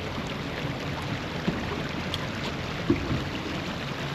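Steady rush of water and wind around a sailboat under way, with two short knocks about one and a half and three seconds in.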